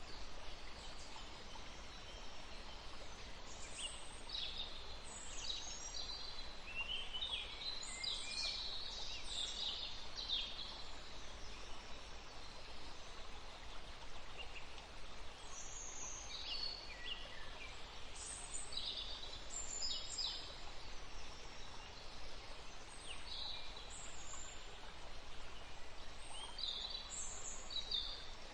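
Several small songbirds chirping and trilling in short, high bursts, in clusters with gaps between, over a steady background hiss.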